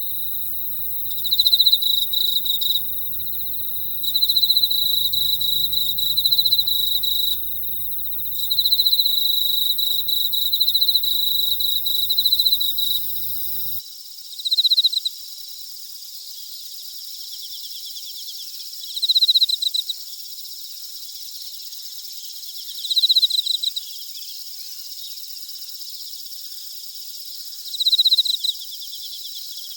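Night chorus of autumn insects chirping, high-pitched. At first one trills steadily with louder bursts every couple of seconds over a faint low rumble; about 14 seconds in the sound cuts to a steady high chorus with a short, louder trill roughly every four seconds.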